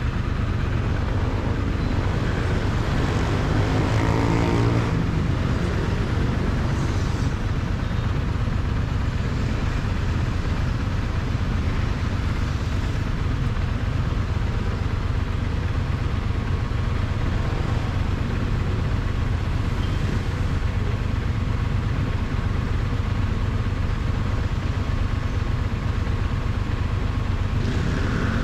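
Triumph Bonneville T100's parallel-twin engine running steadily, its exhaust note picked up close to the pipe. There is a brief swell of sweeping pitch about four seconds in.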